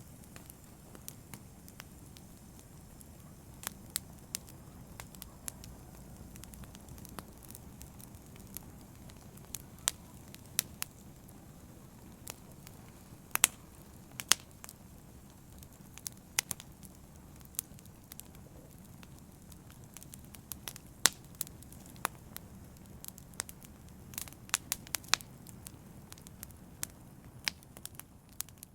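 Open wood fire burning, with a steady low rumble under frequent irregular sharp crackles and pops.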